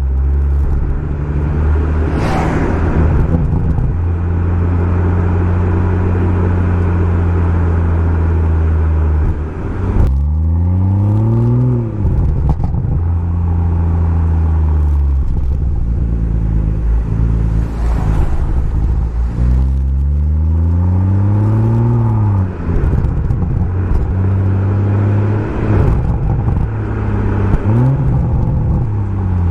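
BMW M140i's turbocharged straight-six with a Remus aftermarket exhaust, holding steady revs at first, then three times climbing in pitch and falling back as it accelerates and eases off. A brief sharp crack about two seconds in.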